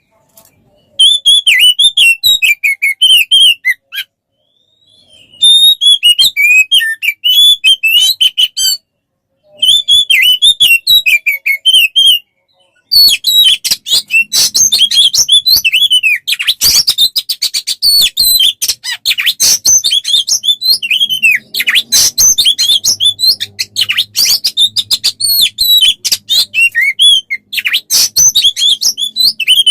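Songbird song played as a masteran tutor recording for training an Oriental magpie-robin: rapid, varied chirps and twitters. Several short phrases are cut off abruptly by dead silence during the first half, then the song runs on without a break.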